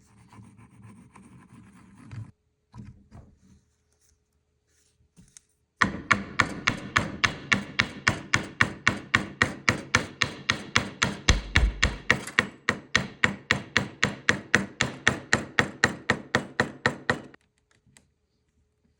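Rubbing on wood for about two seconds, then from about six seconds in a fast, even series of sharp knocks on wood, about four a second. The knocks go on for about eleven seconds and stop suddenly.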